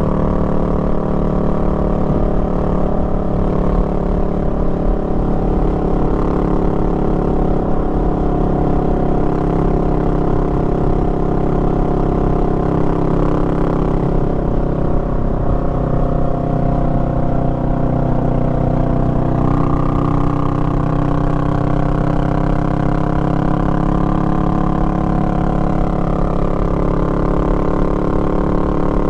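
Honda Rebel 500's parallel-twin engine running under way, a steady note whose pitch shifts a little about two-thirds of the way through as the revs change.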